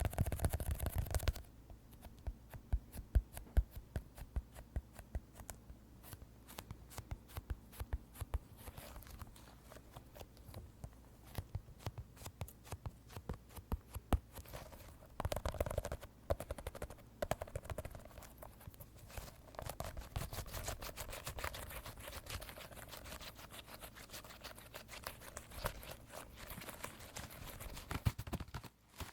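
Fingertips and nails tapping and scratching a squishy toy close to the microphone in quick, irregular taps, with louder, denser bursts at the start and about halfway through.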